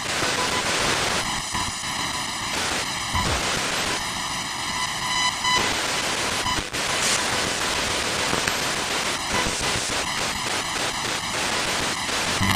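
SBox spirit box sweeping through radio channels: a steady rush of loud static that stutters and changes texture as it jumps from station to station, with choppy pulses coming and going.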